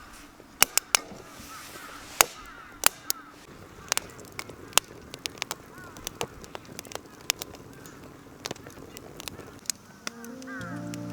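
Wood campfire crackling, with irregular sharp pops and snaps. Faint bird calls in the background, and music comes in near the end.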